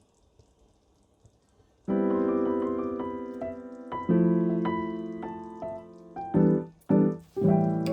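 Near silence, then background piano music comes in about two seconds in: held chords that fade, and shorter, detached chords near the end.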